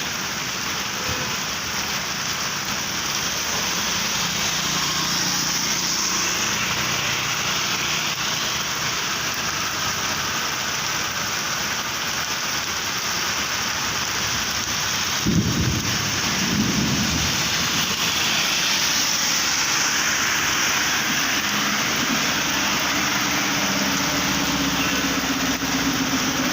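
Heavy rain falling steadily, a dense even hiss of rain on the road and standing water. A brief low rumble stands out a little past the middle.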